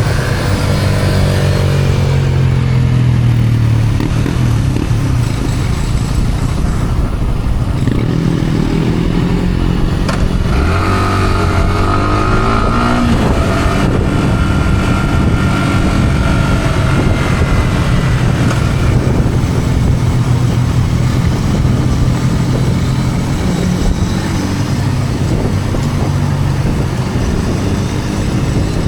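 Yamaha R15 motorcycle's single-cylinder four-stroke engine running through its stock exhaust on the move, its pitch falling and rising with throttle and gear changes, with a clear climb in revs about halfway through.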